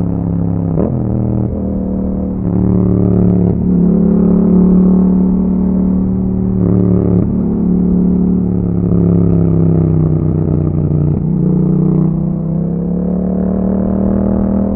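Yamaha MT-07's 689 cc parallel-twin engine through an Akrapovic exhaust while riding, the revs rising and dropping several times.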